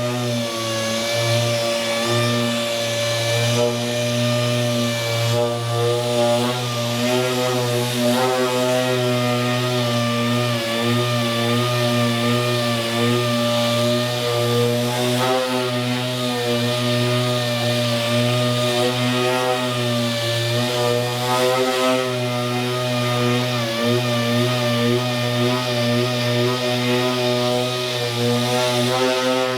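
A power tool running steadily with a pitched motor hum that wavers slightly in pitch.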